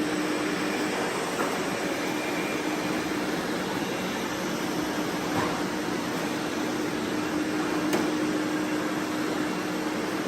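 Robot vacuum running: a steady whirring hum with a constant tone, with a few faint ticks.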